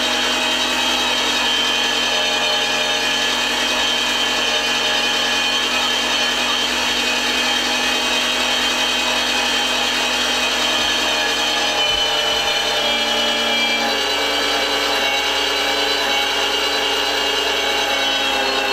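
Electric meat grinder running steadily under load, a loud even hum and whine, as bread is pushed through it to clear out the last of the ground meat. Its tone shifts slightly about fourteen seconds in.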